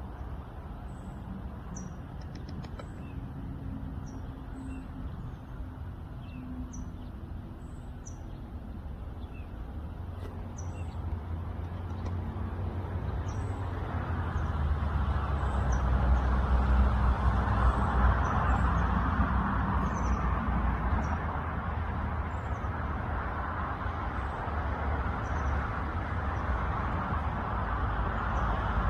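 Small birds chirping in short high notes every second or so, over a low rumble that grows louder about halfway through.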